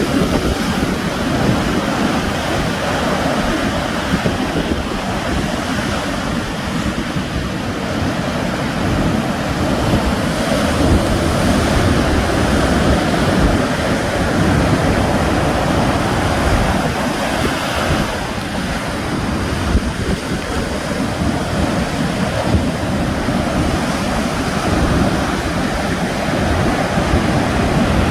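Sea waves breaking and washing on the shore, with wind buffeting the microphone. The surf swells and eases in slow surges.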